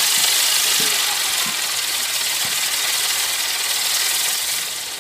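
A firework burning with a loud, steady hiss, easing off near the end as it burns out.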